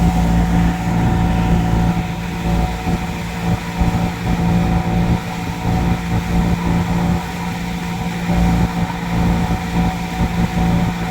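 A boat's engine running steadily while underway, heard on board: a constant drone with a steady low hum and a fluttering low rumble.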